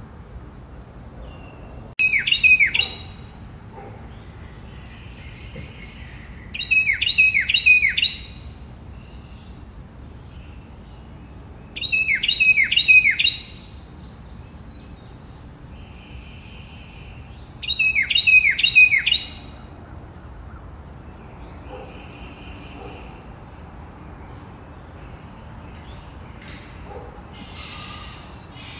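A songbird singing four phrases about five seconds apart, each a quick run of three or four whistled notes that fall sharply in pitch. A steady high insect trill, like crickets, runs underneath.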